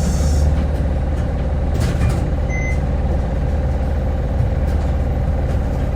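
Hino Blue Ribbon hybrid city bus running with a steady low engine drone. A hiss of air stops about half a second in, and a short high beep sounds about two and a half seconds in.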